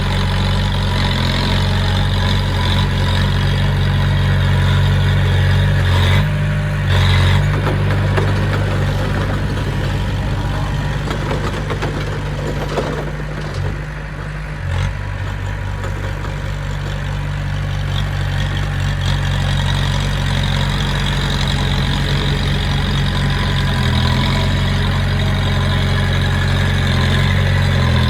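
Heavy earthmoving machine's diesel engine running steadily, dipping briefly about halfway through.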